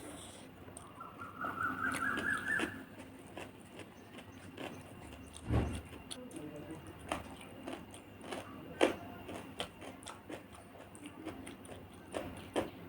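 Close-up eating sounds: chewing, and scattered sharp clicks of fingers or a utensil against a plate. A squeak rising in pitch starts about a second in and lasts nearly two seconds.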